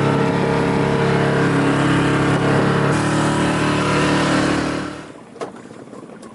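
Sailing boat's engine running steadily under way, its note shifting about three seconds in, then falling away about five seconds in, leaving a much quieter background with a few faint clicks.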